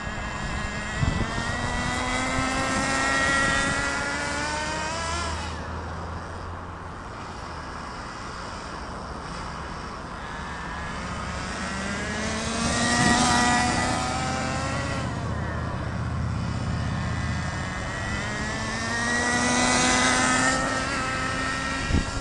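SH 18 nitro engine in an RC truck, screaming as it is throttled up on straight runs during its break-in on the fourth tank. Its pitch and loudness rise three times: about a second in, in the middle, and near the end.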